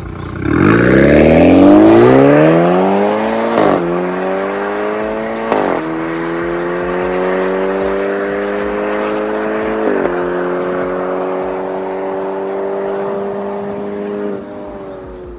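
BMW N20 2.0-litre turbocharged four-cylinder engine through an MS-R valved cat-back exhaust, accelerating hard with three upshifts: the pitch climbs steeply and is loudest in the first gear, drops at each shift and climbs more slowly after, then falls as the throttle is lifted near the end.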